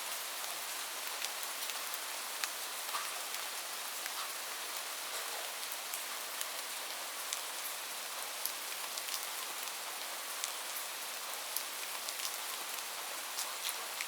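Steady rain falling: an even hiss with single drops ticking sharply every second or so.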